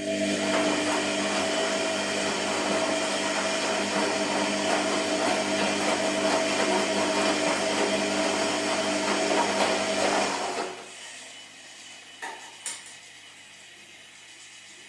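Washing machine running with a steady hum over a noisy whir, then stopping about ten seconds in; two light clicks follow in the pause.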